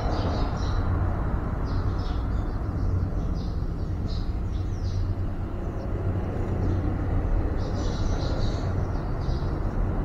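Small birds chirping in short high bursts, several times, over a steady low rumble of background noise.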